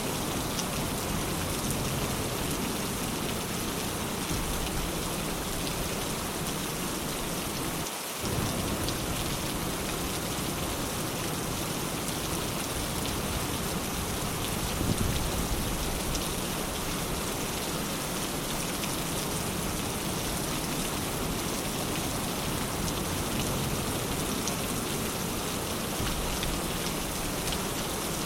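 Steady, dense rain falling, with a low rumble of distant thunder swelling briefly about halfway through.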